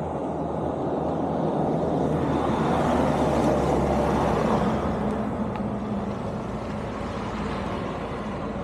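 A motor vehicle passing on the road: engine and tyre noise growing louder to a peak about three seconds in, then fading away.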